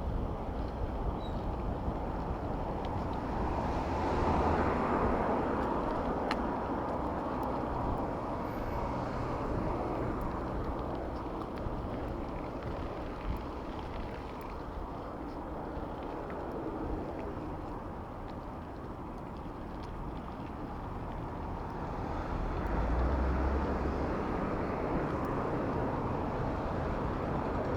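Road traffic heard from a moving bicycle: a steady wash of vehicle and road noise, with a heavier engine rumble swelling about four seconds in and again near the end as vehicles pass close.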